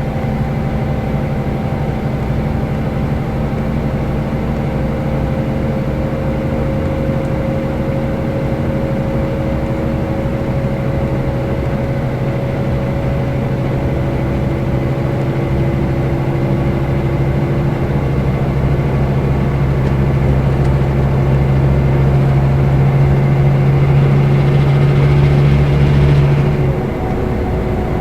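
Scania K320 coach's diesel engine pulling under load, its pitch slowly climbing and growing louder; near the end the engine note drops off sharply, as on a gear change or lifting off the throttle.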